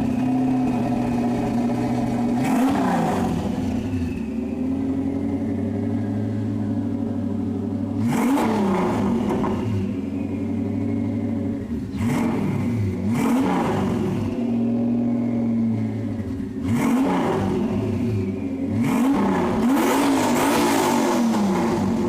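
Lexus 1UZ VVT-i V8 with a single GT35 turbo idling, blipped into quick revs that rise and fall about six times, with several blips close together near the end.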